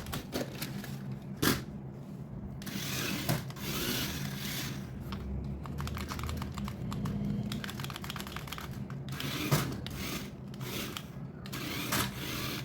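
Hands handling toys and packaging: rustling and rubbing with several sharp clicks. Around the middle there is a stretch of rapid fine ticking over a low hum.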